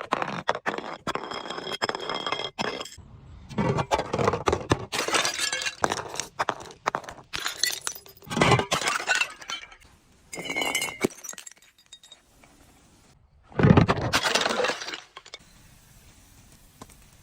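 Glass bottles being crushed: a run of crunching, clinking breaks with shards ringing, coming in several separate bursts, the loudest near the end, after which it goes quiet.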